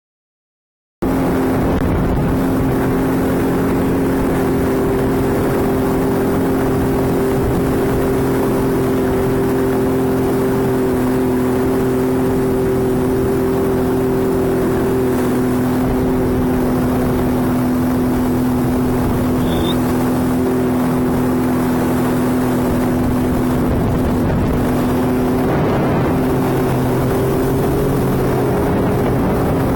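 Sea-Doo jet ski engine running at a steady cruising speed over a constant rush of noise, starting about a second in. Its pitch shifts slightly near the end.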